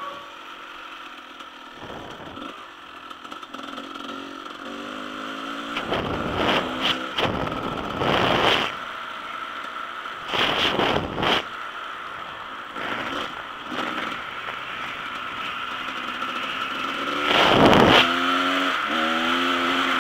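Dirt bike engine running and revving, its pitch rising and falling with the throttle. Several short rushes of loud noise come through the middle, and the loudest is near the end.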